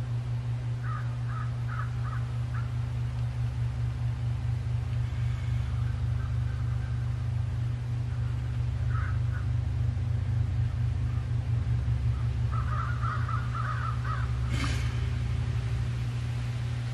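A steady low hum, with a bird calling in quick runs of short repeated notes: a few about a second in, once near nine seconds, and a longer run a little before fifteen seconds. A single sharp click comes just after that last run.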